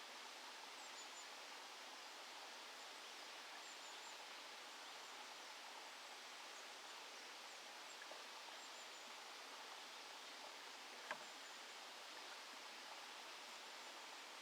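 Faint, steady outdoor ambience, an even hiss-like background with scattered faint, high, short chirps and a single soft click about eleven seconds in.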